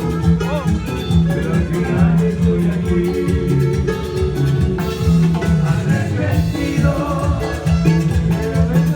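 Latin American band music playing with a steady beat and a strong bass line.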